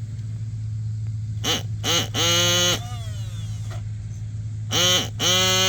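Electric starter cranking the nitro glow engine of a Lite Machines RC helicopter, which does not catch. It comes in two goes, each a couple of short blips and then about a second of whine that rises and levels off, then winds down after release. A steady low hum runs underneath.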